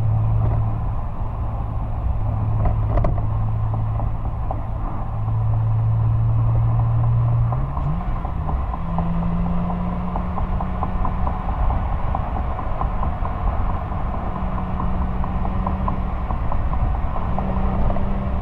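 Exhaust of a 1999 Porsche 911 Carrera 996's 3.4-litre flat-six while driving, heard close to the tailpipe. The engine runs at a steady, moderate pitch, then revs climb quickly about eight seconds in and hold at a higher, steady note.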